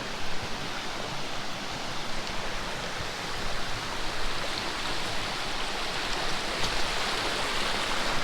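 Steady rushing noise of water in wet bush, even and unbroken.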